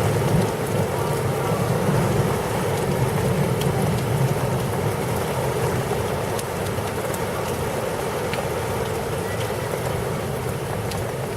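Heavy rain pouring steadily in a thunderstorm, a constant wash with scattered faint drop ticks.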